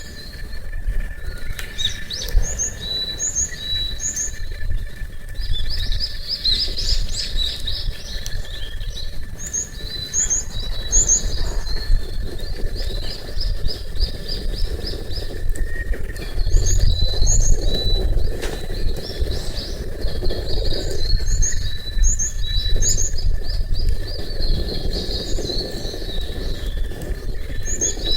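Small songbirds singing and chirping, repeating short high notes in quick groups of three or four, with a low rumble underneath.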